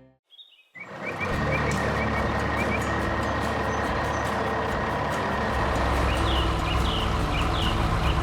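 Heavy construction-vehicle engine starting up about a second in and then running steadily, with a faint constant high tone and short high chirps over it.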